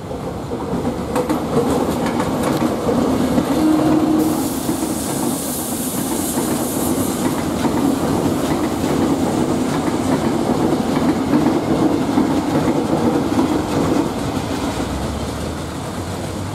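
Electric commuter train passing close by, its wheels clattering over the rails. A high hiss joins it from about four to seven seconds in, and the sound eases off near the end.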